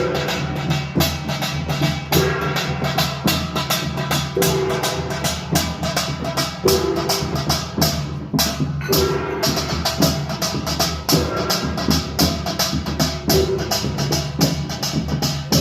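Pungmul percussion ensemble playing a fast, driving rhythm: dense rapid strikes, with a ringing tone returning about every two seconds and a brief break in the high clatter a little past halfway.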